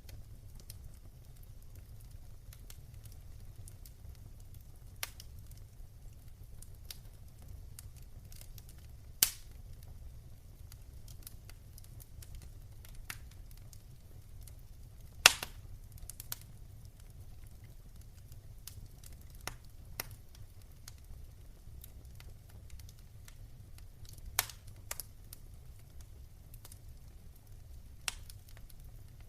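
Fireplace fire crackling: a steady low rumble with irregular sharp snaps and pops, two of them much louder in the first half.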